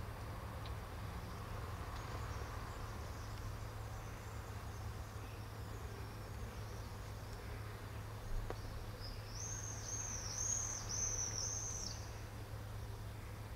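Steady low background hum outdoors; about two-thirds of the way in, a small bird gives a quick run of four high, arching chirps, just after a single faint click.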